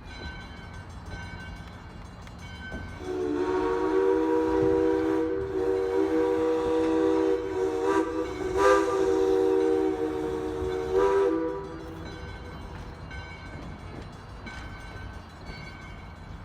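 Diesel freight locomotive's horn sounding a multi-tone chord for about nine seconds, with brief breaks near the end, over a steady low rumble of the train.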